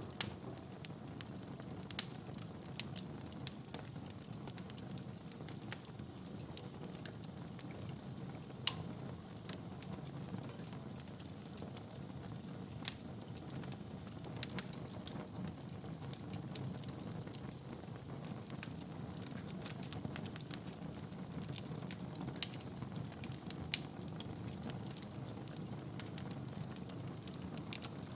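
Wood fire burning in a fireplace: a steady low rumble of flames with frequent crackles and a few sharper, louder pops scattered throughout.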